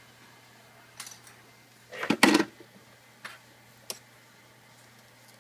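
Prying tool clicking and knocking against the laptop's screen assembly and lid as the screen is worked loose. There are a few isolated clicks and a louder, half-second cluster of rattling knocks about two seconds in.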